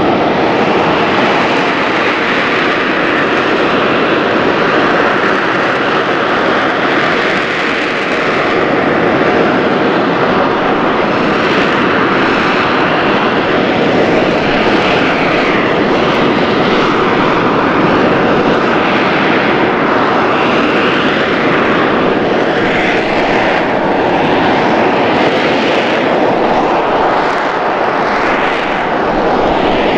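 AV-8B Harrier II's Rolls-Royce Pegasus turbofan running loudly and steadily, with a whine that drifts up and down in pitch through the second half.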